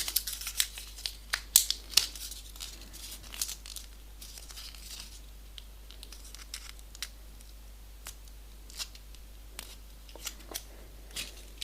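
Folded printer paper crinkling and crackling in the hands as a small 3D origami piece is opened, pinched and pressed into shape: a run of short, sharp crackles, thickest in the first few seconds and again near the end, with quieter handling between.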